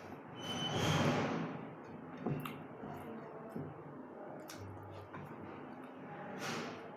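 Close-up eating sounds: chewing and handling of rice and curry, with a few small wet clicks and a louder rustly swell about a second in.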